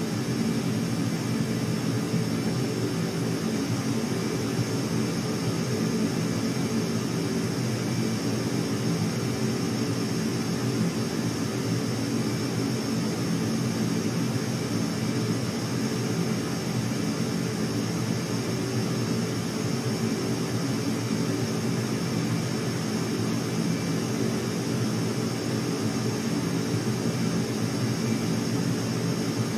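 Steady aircraft engine drone, unchanging in level throughout, with a faint high whine running over it.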